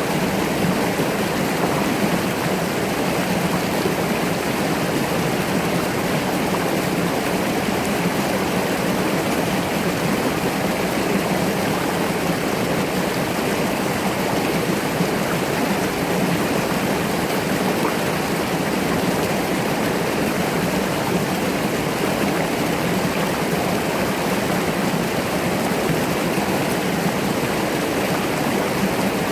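A mountain brook running steadily, water rushing and splashing over rocks.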